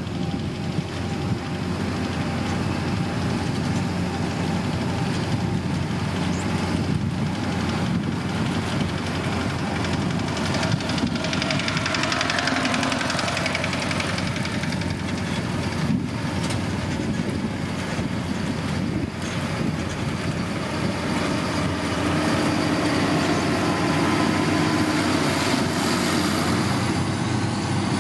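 Diesel engine of a heavy motor grader running steadily while working gravel, its note shifting about midway and again near the end.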